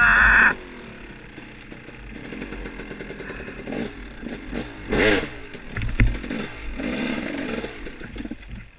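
Off-road dirt bike engine revving on a woods trail. It is loud for the first half second, then drops back to a lower run, with short bursts of throttle about five and seven seconds in.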